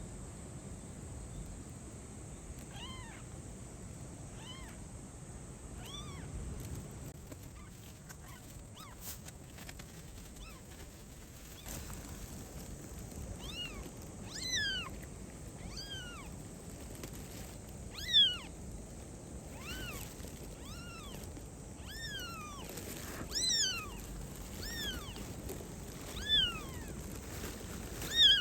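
A calico kitten meowing repeatedly in short, high-pitched cries. They are faint at first and come every second or two, growing much louder from about halfway through.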